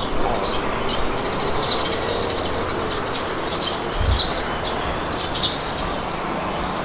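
Steady wind blowing, with small birds chirping in short high calls every second or so. A brief low thump about four seconds in.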